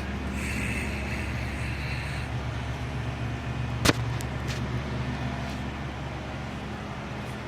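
Steady low mechanical hum. A hiss rises over it for the first couple of seconds, and a single sharp click comes about four seconds in.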